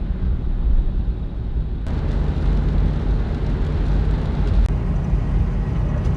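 Fifth-generation Toyota 4Runner driving: a steady low rumble of engine and road noise that grows fuller about two seconds in.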